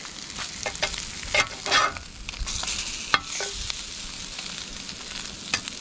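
Sliced Spam frying in a pan with a steady sizzle, while a cooking utensil scrapes and taps against the pan several times. A sharp click about three seconds in is the loudest sound.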